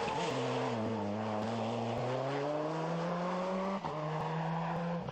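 Rally car engine under hard acceleration. The note dips briefly at the start, then climbs steadily, drops at an upshift about four seconds in, and climbs again.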